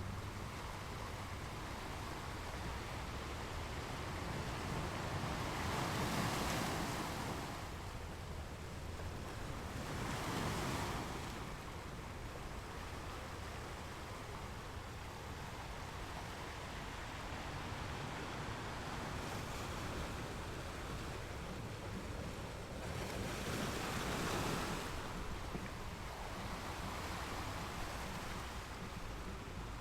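Ocean waves breaking on a beach in a continuous wash, with louder surges about 6 s, 10 s and 24 s in. Low rumble of wind on the microphone underneath.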